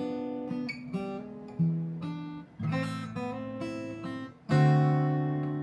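Acoustic guitar intro: picked notes, then strummed chords, one loud strum about four and a half seconds in that rings on.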